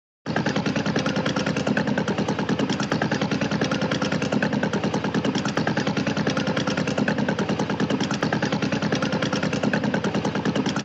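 Tractor engine running steadily with a rapid, even chugging beat, used as Terence the Tractor's moving sound effect. It starts abruptly just after the start and cuts off suddenly at the end.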